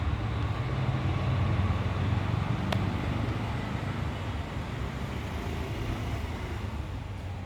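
Steady low rumble of road traffic, with a single sharp click nearly three seconds in.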